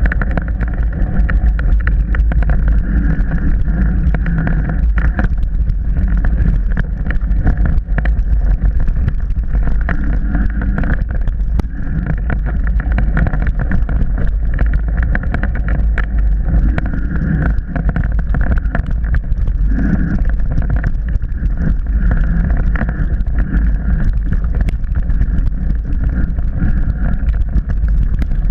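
Onboard sound of a mountain bike riding a trail: a steady rumble and wind on the microphone, with frequent clicks and knocks as the bike and camera rattle over rough ground.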